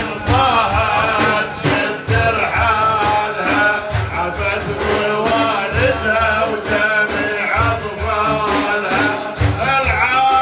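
Islamic devotional praise singing (madih) with hand drums beating a steady rhythm under a wavering, melismatic voice.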